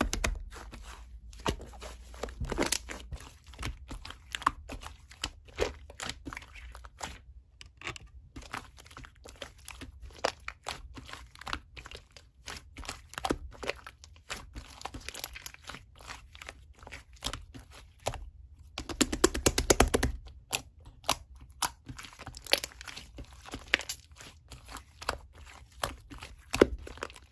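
Slime being squished, pressed and stretched by hand, making a dense run of small crunchy clicks and crackles, busiest about two-thirds of the way through.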